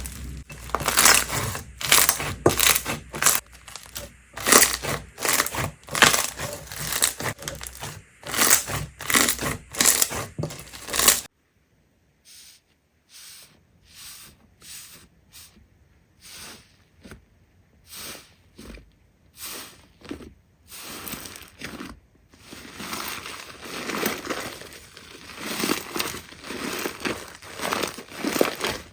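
Slime being squeezed and pressed, giving a fast run of loud crackling, sticky pops. About a third of the way in it cuts to quieter, scattered pops, which thicken into steady crackling again in the last few seconds.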